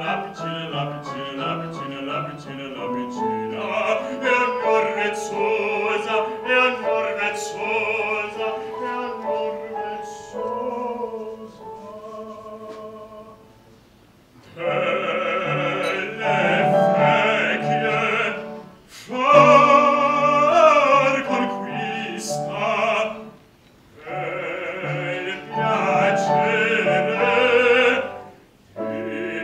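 Operatic singing with piano accompaniment in a classical art song or aria. The voice drops out briefly twice, with the music going quiet about halfway through and again a little later.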